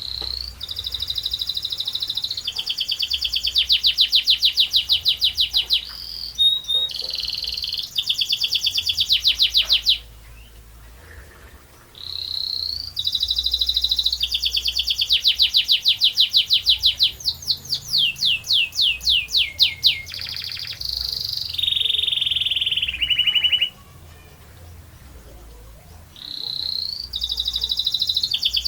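Domestic canary singing in long rolling trills: phrases of very fast repeated high notes, some runs slowing into separate falling notes. The song breaks off twice for a couple of seconds, about ten seconds in and again a little before halfway through the second half.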